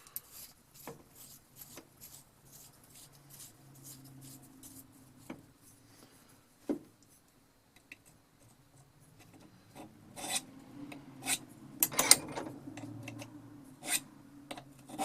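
Diamond sharpening rod filing the cutting edge of a dull vintage auger bit: irregular scraping strokes with a few sharp clicks, busier and louder in the last few seconds.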